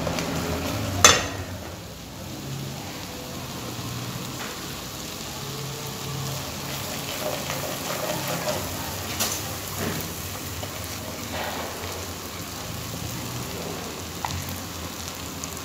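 Food sizzling in a frying pan, with one sharp knock about a second in and a few lighter clicks later.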